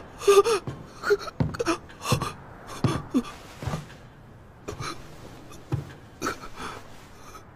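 A person's short, irregular gasps and panting breaths, some with a brief voiced catch, growing sparser toward the end.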